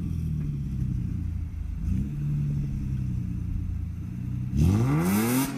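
Car engine idling with a low steady note, a short throttle blip about two seconds in, then revved hard near the end, its pitch climbing fast.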